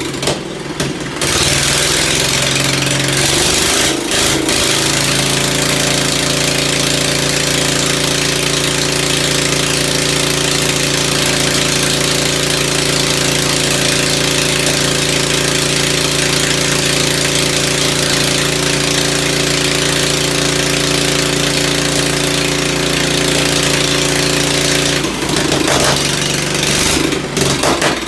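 Ford engine running at a steady idle after a tune-up. The note is unsettled around the first few seconds and shifts again near the end.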